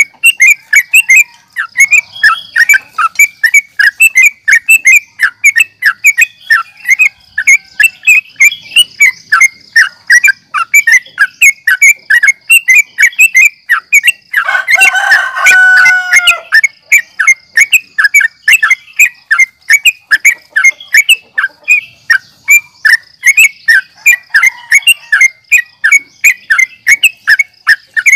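Yellow-vented bulbul (trucukan) singing a fast chattering song, a rapid string of short bright notes. About halfway through comes a louder, harsher call with a held tone, lasting about two seconds, before the quick chatter resumes.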